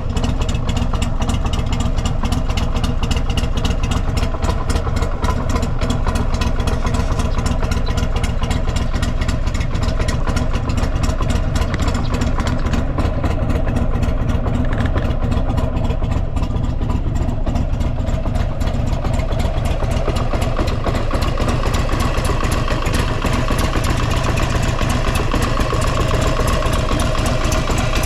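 Buell XB12SCG Lightning's air-cooled 1203 cc V-twin idling steadily, with a fast, even firing pulse and no unusual mechanical noises.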